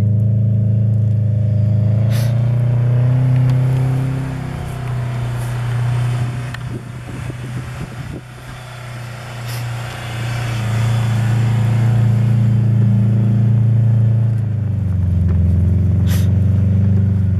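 Subaru Forester's flat-four engine running hard at steady revs as the car ploughs through deep snow on summer tyres. It fades in the middle as the car moves away across the clearing, comes back louder as it returns, and the revs drop near the end.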